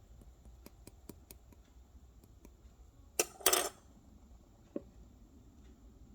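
Small hard objects being handled: a run of light clicks and taps, then two louder clattering knocks about three seconds in, and one more click a little later.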